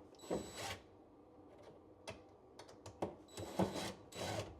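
Cordless drill backing out the screws that hold a vanity cabinet to the wall, running in several short bursts with clicks and knocks between them.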